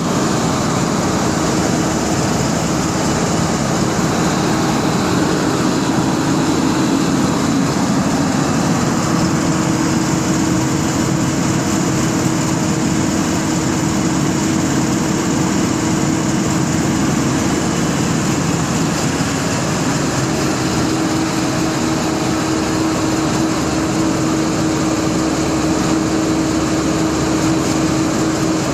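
SV540T machine's engine running steadily at a constant speed, with a steady hum throughout.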